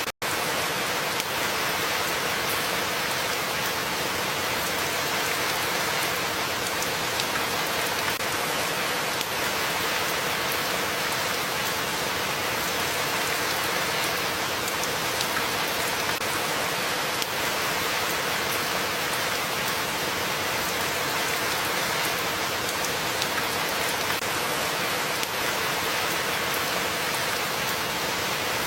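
Steady rain falling, an even hiss of downpour with scattered individual drops ticking through it. It breaks off for an instant just after the start, then carries on unchanged.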